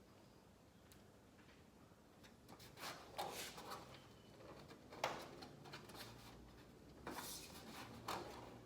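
Faint, irregular clicks, knocks and scrapes of hands and tools working at a caravan's sheet-metal exterior panel and its rivets, starting a couple of seconds in, with the sharpest knock about halfway through.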